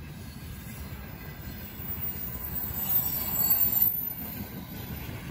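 Train running along the track: a steady low rumble of wheels on rails, with a thin, very high wheel squeal that swells and is loudest about three to four seconds in.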